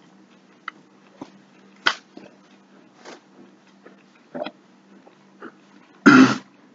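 A man chewing a piece of fried liver close to the microphone: scattered soft wet mouth clicks and smacks, then a short loud cough about six seconds in.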